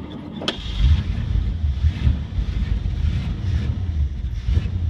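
1969 GMC dump truck's engine in a sub-freezing cold start: a sharp click about half a second in, then the engine turns and fires with an uneven low rumble that swells and dips, a cold engine struggling to keep running.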